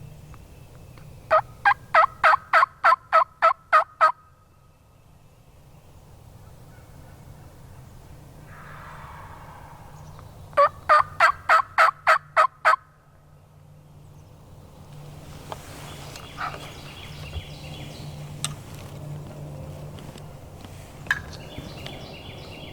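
Wild turkey yelping: two loud series of evenly spaced yelps, about ten notes and then about eight, at roughly four a second. Faint bird chirps follow in the second half.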